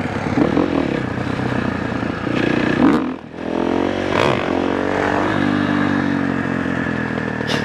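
Dirt bike engine running under throttle, its pitch rising and falling. About three seconds in it briefly drops off, then revs climb again.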